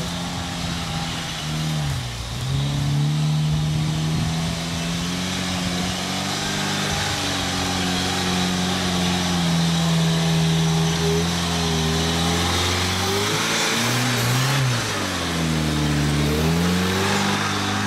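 Jeep engine running under load off-road, its revs held fairly steady, then dropping and picking up again about two seconds in and twice more near the end.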